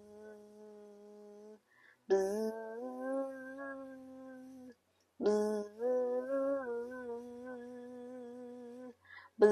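A person buzzing with the voice to imitate a bee, a steady low hum held on one pitch with a slight waver. It comes in long stretches broken by quick breaths about two and five seconds in, with each stretch starting with a sharp buzzy onset.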